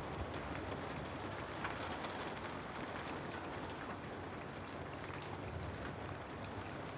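Steady rain: an even hiss of rainfall with small drop ticks scattered through it.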